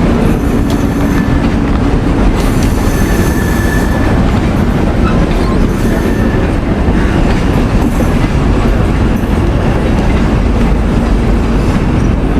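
Mumbai Rajdhani Express coaches rolling out of the station, their wheels clattering steadily over the rail joints, with a brief faint wheel squeal now and then.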